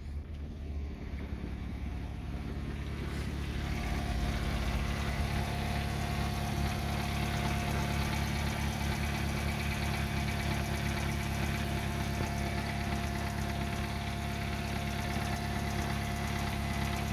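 Kia Rio 1.4-litre G4EE four-cylinder petrol engine idling steadily. A steady high whine joins the engine note about three and a half seconds in.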